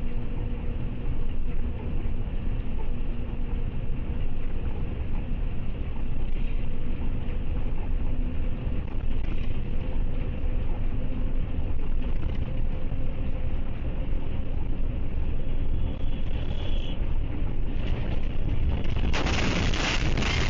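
Steady low rumble of a vehicle driving, picked up by a dash cam, with a faint engine hum. About nineteen seconds in it turns into a louder, harsher rushing noise.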